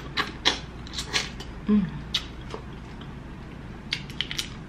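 Close-miked eating sounds of a person chewing shrimp: wet mouth clicks and lip smacks coming in irregular clusters, with a brief low hum of the voice near the middle.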